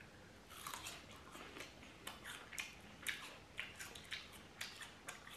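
Two people chewing slices of crisp raw Chinese pear, with quiet, irregular wet crunches.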